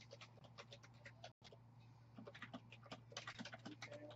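Faint, irregular typing on a computer keyboard, with clusters of quick key clicks, over a steady low electrical hum.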